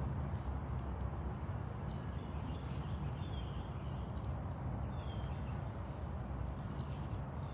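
Small wild birds chirping repeatedly: short, high chirps about every half second, some with a brief falling note, over a steady low rumble.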